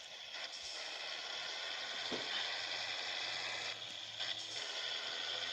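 Steady running noise of a Scania 111 truck under way, with a low steady hum that comes in about two seconds in.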